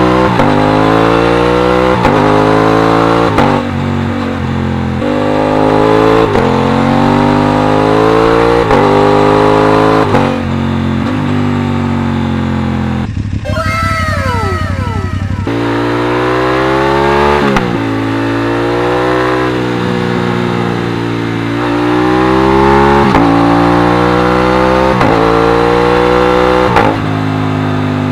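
Aprilia RS 660 parallel-twin engine under way, accelerating hard through the gears: the note climbs in pitch in each gear and drops at each upshift, several times over. About halfway through the throttle is briefly closed and the engine note falls away before it pulls again.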